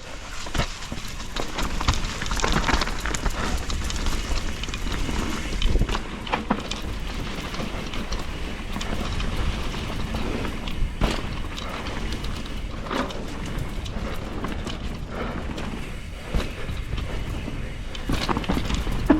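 Mountain bike riding down a dirt trail: steady rumble of tyres and wind noise, with scattered sharp knocks and rattles from the bike over roots and rocks.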